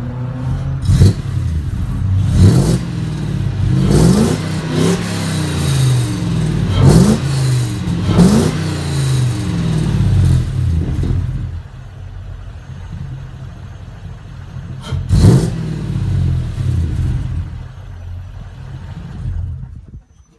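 Lexus 1UZ non-VVTi 4.0-litre quad-cam V8 heard through its stock exhaust with the silencer box fitted, blipped up and down in a string of short revs, then settling to a steady idle about 11 seconds in. One more rev comes about 15 seconds in, and the sound drops away just before the end.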